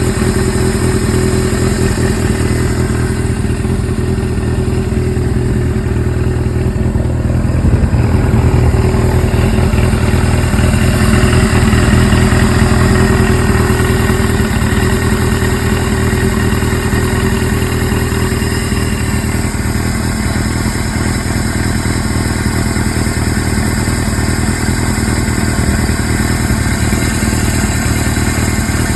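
Suzuki GS-series air-cooled inline-four motorcycle engine, fitted with CVK carburettors, running steadily at idle, picking up slightly for a few seconds near the middle. It is being run to check on an abnormal engine noise.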